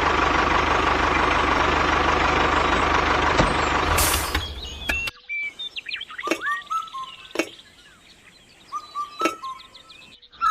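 A steady, noisy motor-like running sound with a low hum for about five seconds, which cuts off suddenly. It is followed by scattered bird chirps and a few sharp clicks.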